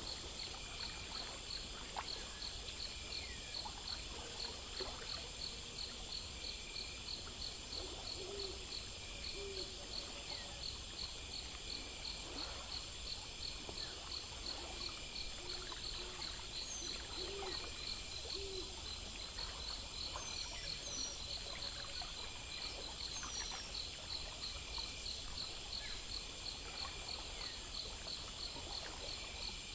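A steady chorus of night insects chirping in fast, regular pulses, with a few short, low calls from another animal around the middle.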